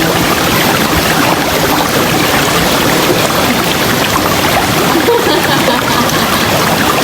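River water rushing and splashing over rocks, a loud steady flow.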